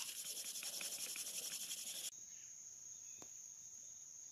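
Insects calling: a loud, fast-pulsing high buzz that cuts off abruptly about two seconds in, leaving one steady high-pitched trill.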